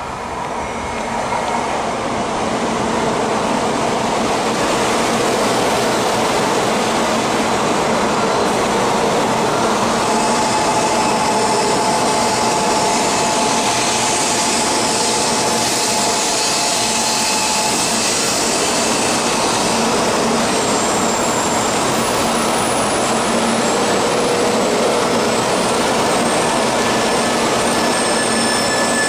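Shinkansen bullet train running along a station platform: a loud, steady rush of wheel and air noise that builds over the first couple of seconds. A faint high whine rides on it for several seconds about ten seconds in.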